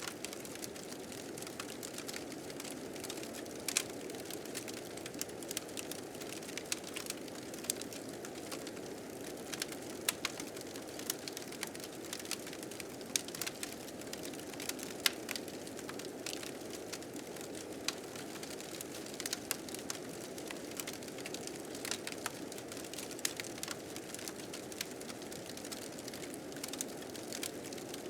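Blizzard wind blowing steadily, mixed with a wood fire crackling in frequent irregular sharp pops.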